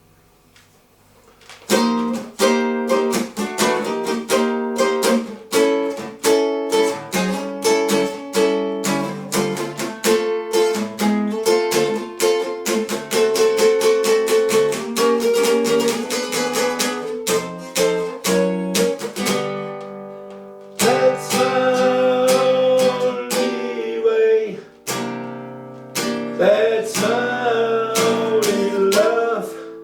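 Acoustic guitar playing starts after a brief quiet, about two seconds in, with a steady run of quick picked notes and chords. A wavering melody line joins in over it in the last third.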